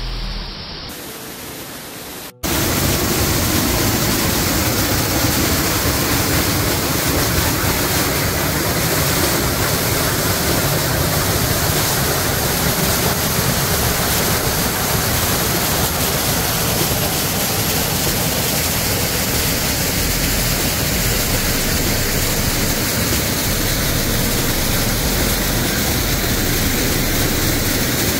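A waterfall rushing close by: a loud, steady roar of falling water that starts abruptly about two seconds in, after a short, softer stretch.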